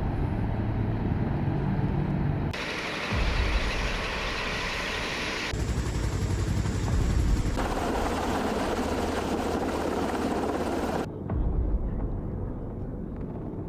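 Helicopter rotor and engine noise across several spliced clips, the sound changing abruptly every few seconds from one clip to the next.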